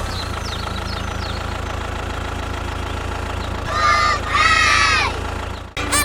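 An engine idling with a steady low rumble. Twice, in the second half, a high, wavering voice-like cry rises over it.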